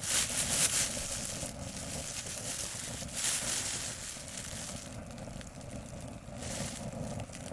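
Wood fire burning in a small fire pit, with a low steady rumble and crackling, and brief louder noisy bursts at the start and again about three seconds in.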